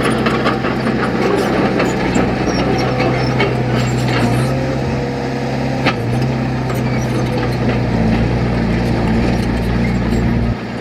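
Heavy earthmoving machine's diesel engine running steadily under load, its pitch shifting slightly a few times, with scattered metallic clanks and one sharp knock about six seconds in. The engine sound drops away suddenly just before the end.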